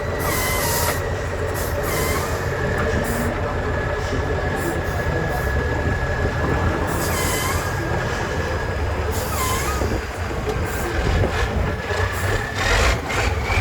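Heavy truck engine running steadily with a thin whine over it. Short bursts of air hiss come three times, along with small squeaks.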